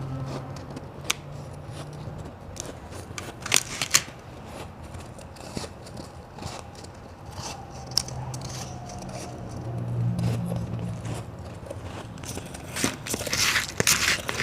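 Close-miked biting and chewing of hard white ice: a few sharp crunching cracks in the first four seconds, then a dense run of crunching near the end.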